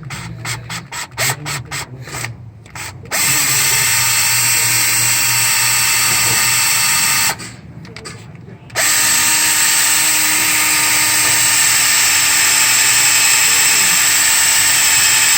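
Power drill boring into a broken EGR bolt on a 6.7 engine to get it out. A few quick stop-start blips first, then it runs steadily for about four seconds, stops briefly, and runs steadily again for about six seconds before cutting off near the end.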